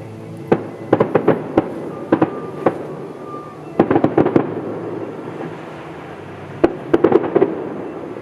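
Fireworks going off: volleys of sharp bangs in quick succession, in four or five clusters with short pauses between them.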